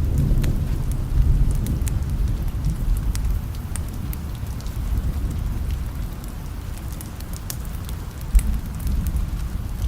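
Steady rain with a low rumble of thunder fading at the start, and scattered sharp crackles from a fireplace fire. There is a brief low thump near the end.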